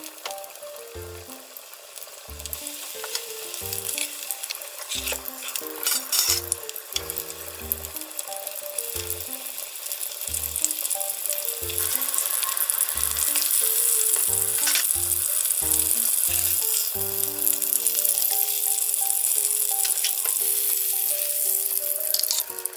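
Breaded cutlets shallow-frying in hot oil in a frying pan: a dense sizzle with scattered pops, growing louder about halfway through, over background music.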